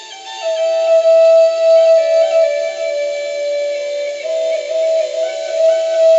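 Native American flute playing a slow melody of long held notes with short stepping turns between them, over softer background music.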